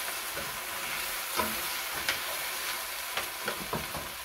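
Soaked rice and moong dal frying in hot oil in a stainless steel pan, sizzling steadily as they are stirred. From about a second and a half in, the spatula scrapes and clinks against the pan several times.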